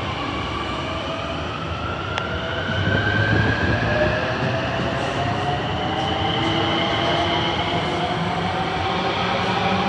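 A train passing with a whine in several tones that rises slowly in pitch, as when it is pulling away and speeding up, over a steady rumble of wheels on track that swells briefly about three seconds in.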